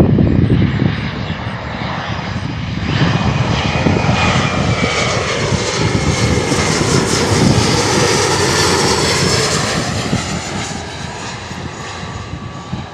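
Airliner passing close by: engine noise swells over a few seconds, peaks mid-way with a whine gliding in pitch, then fades. Wind buffets the microphone at the start.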